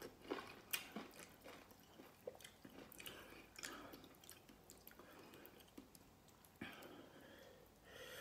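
Quiet, close chewing and mouth sounds of a person eating: a scatter of small soft clicks and smacks.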